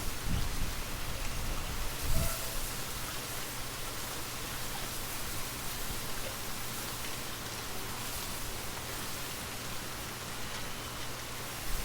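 Steady rainfall, an even hiss of raindrops, with a brief low rumble about two seconds in.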